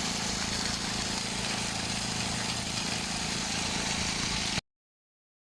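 A steady motor or engine running, with a constant hum under a hiss. It cuts off abruptly about four and a half seconds in.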